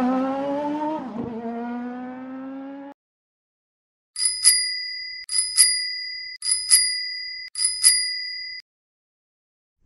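A bicycle bell rung four times, each a quick double ring, about a second apart. Before it, an engine sound with a short rise in pitch fades out, then a brief pause.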